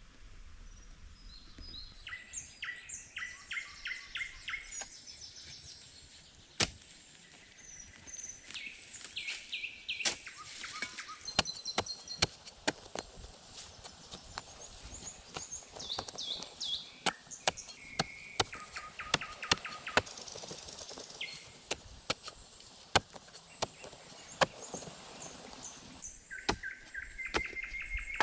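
Songbirds singing in the woods, with repeated chirps, trills and whistled phrases. From about six seconds in, sharp, irregular cracks and snaps sound over them, louder than the birds.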